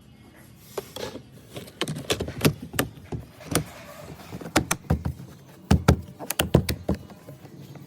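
Irregular sharp clicks and knocks from work on a car door, coming thick and fast from about one second in and stopping about seven seconds in.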